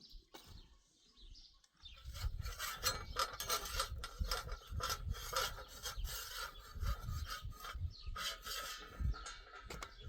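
Repeated, irregular scraping and rubbing, starting about two seconds in after a quieter opening.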